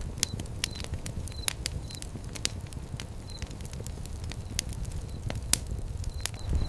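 Wood fire crackling, with irregular sharp pops over a low steady rush of flame. A few short, high-pitched peeps come and go near the start and near the end.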